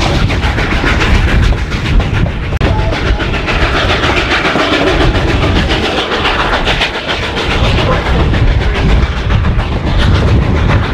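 Narrow-gauge passenger train cars rolling along the track, a steady low rumble with the wheels clacking over the rail joints.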